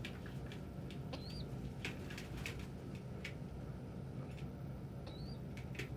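Young pigeons peeping, with two short high squeaky calls about a second in and near the end, and scattered light clicks and taps. A steady low fan-like hum runs underneath.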